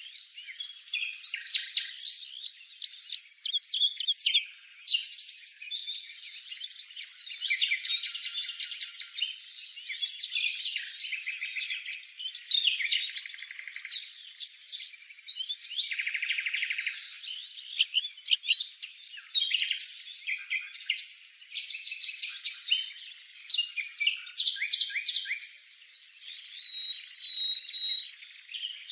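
Streaked spiderhunter calling: a busy run of sharp chirps, rapid trills and chattering notes, with only brief pauses.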